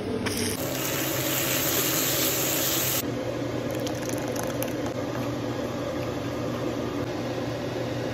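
Chopped onion sizzling in hot ghee in a kadai: a loud, even hiss that cuts off abruptly about three seconds in. After that a quieter, steady sizzle of the frying masala continues, over a steady low hum.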